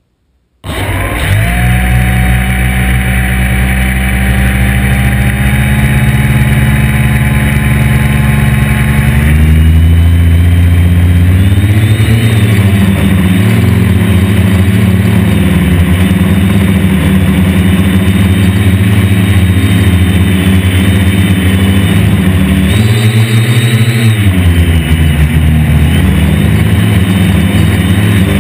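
The four electric motors and propellers of a DJI F450 Flame Wheel quadcopter start up suddenly about a second in and run steadily. About nine seconds in they throttle up, and their pitch then rises and falls twice as the throttle changes in flight.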